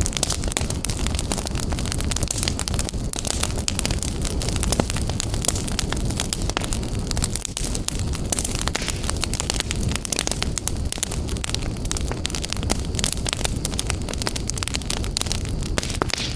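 Wood fire burning in a fireplace with a steady low rumble of flames and many dense crackles and pops.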